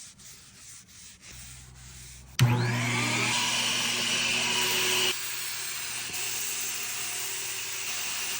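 Power sander working a cedar beam: faint rubbing at first, then about two and a half seconds in the sander sets on suddenly with a steady hum and hiss, dropping to a quieter level about five seconds in.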